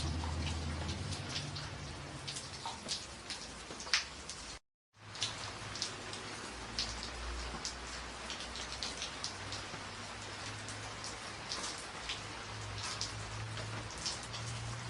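Steady rain on a tin roof, with many distinct drop hits over a low rumble. The sound cuts out completely for about half a second roughly a third of the way in.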